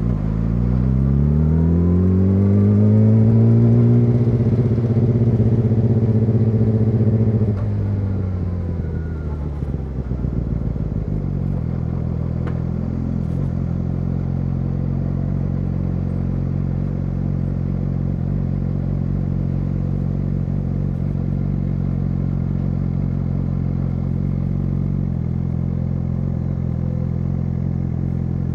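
Yamaha YZF-R6 inline-four engine through an SC-Project SC1-R exhaust: it revs up over about three seconds and holds there, then drops back about eight seconds in and settles to a steady idle for the rest.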